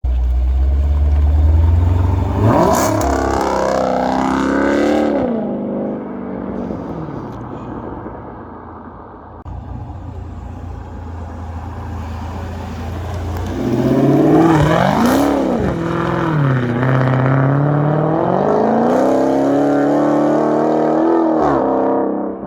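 Dodge Challenger 6.4-litre HEMI V8 with its middle mufflers deleted, accelerating hard twice. Each time the engine note rises steeply and dips at the gear changes. Between the two pulls it eases off to a low rumble, and near the end the revs drop away.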